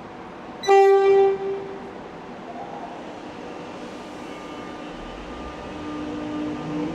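Suburban electric train departing an underground platform: a short single-pitch horn toot about a second in, then the train's steady rumble, with its traction motors starting a rising whine near the end as it pulls away.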